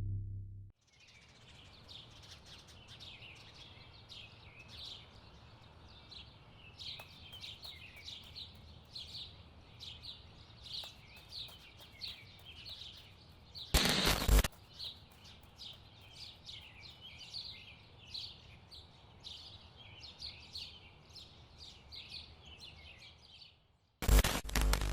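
Birds chirping and singing in a dense chorus of short, high, repeated notes over faint background noise. A loud rush of noise breaks in briefly about halfway through, and again near the end.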